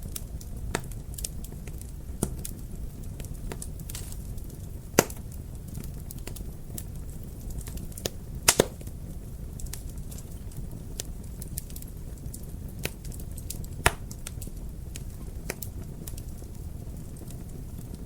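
Wood fire crackling in a fireplace: a steady low rumble of flame with many small snaps and a few sharp pops, the loudest about 5 seconds in, a quick double pop about 8 seconds in, and another near 14 seconds.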